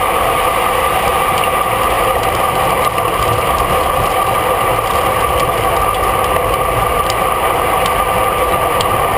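Steady wind rush and road noise on a camera mounted on a racing bicycle at speed, a loud even roar with a constant drone over it.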